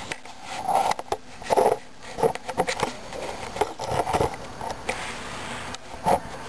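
Recoil pull-start cord of a gas string trimmer being yanked about five times, a short ratcheting whir with each pull, without the engine catching: a cold start on full choke after priming.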